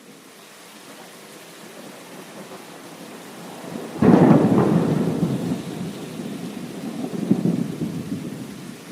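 Steady rain with a thunderclap about four seconds in, which rumbles on, swells again near the end, then fades back under the rain.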